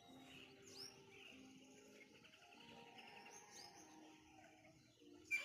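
Faint birdsong: scattered short chirps over a quiet background, with one sharper, louder chirp near the end.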